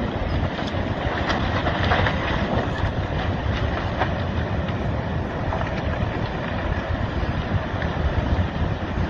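Steady rushing rumble of a massive landslide sliding into the sea, with scattered faint crackles and wind noise on the microphone.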